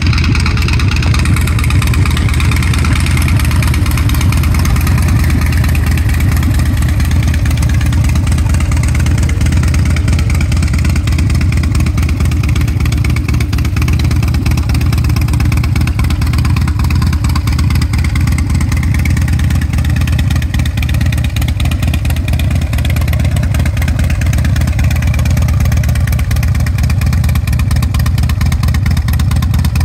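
Harley-Davidson CVO Fat Bob's Screamin' Eagle 110 V-twin idling steadily.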